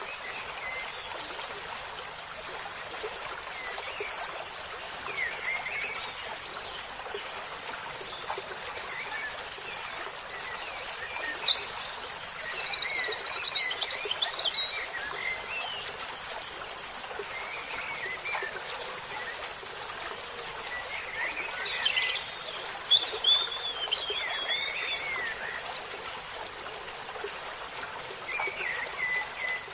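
Songbirds singing in scattered phrases of chirps and whistles over the steady rush of a running stream. It is a natural-ambience bird track used to calm stressed caged songbirds.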